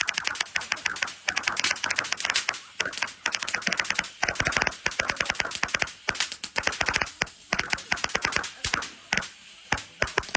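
Fireworks going off in a rapid, irregular crackle of sharp cracks, several a second, easing briefly about nine seconds in.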